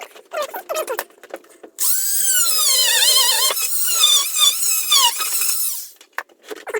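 A cordless drill driving a screw down through a floorboard for about four seconds, its motor whine rising and falling in pitch with the trigger and the load. Before it come a few short squeaks.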